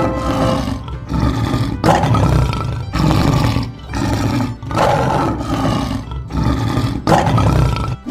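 Lion roaring over and over, one loud, rough roar about every second.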